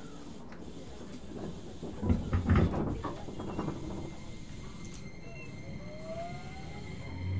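Keio 8000 series train heard from inside the car: sliding doors shut with a couple of thumps about two seconds in. From about five seconds in, the Hitachi IGBT VVVF inverter whine rises steadily in pitch as the train starts to pull away.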